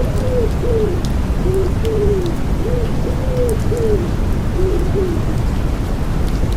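Common wood pigeon cooing in a run of soft arched notes that stops about five seconds in, over a steady bed of white noise and rain with faint scattered raindrop ticks.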